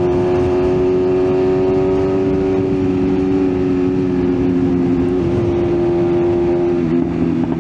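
BMW S1000RR's inline-four engine running at a steady cruise under a rush of wind and road noise, its pitch easing down slightly about five seconds in and again near the end.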